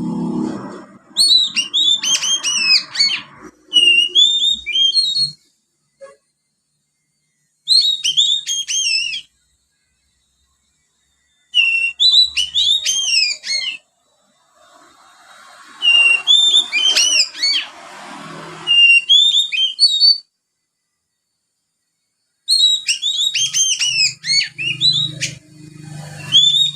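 Young oriental magpie-robin twittering in quick runs of high, falling chirps, in the manner of Eurasian tree sparrow calls that it has taken into its song. The runs come in about five bursts, each a second or more long, with silent gaps between them.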